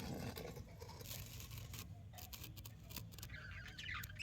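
Faint light scratching and clicking, with soft budgerigar chirps near the end.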